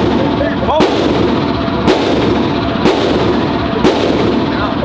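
Pistol shots at an indoor range, about one a second, four in a row, each ringing out in the enclosed lanes over a continuous din.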